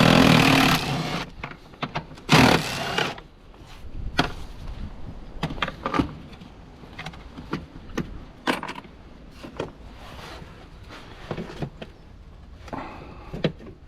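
Work on the top of a car's gearbox: two loud rushing bursts near the start, then a long run of scattered clicks and knocks from tools and plastic trim clips being handled.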